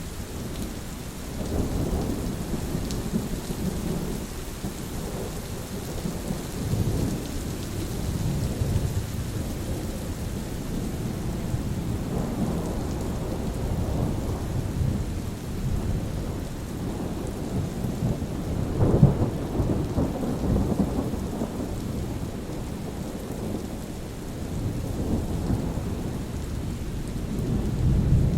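Steady rain with rolling thunder rumbling in several long swells, the loudest about two-thirds of the way through.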